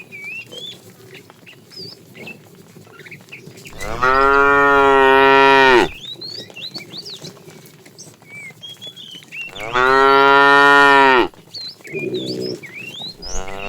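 Cattle mooing: long, loud drawn-out moos about four and ten seconds in, a short one about twelve seconds in, and another starting near the end.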